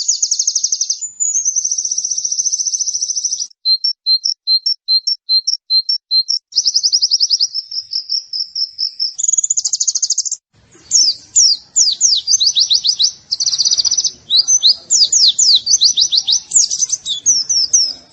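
White-eye (pleci) singing a long, high-pitched song of fast trills and chirps. Short separate notes come in a quick series at about four a second for a few seconds, then give way to denser, rapidly sweeping chirps after a brief pause about ten seconds in.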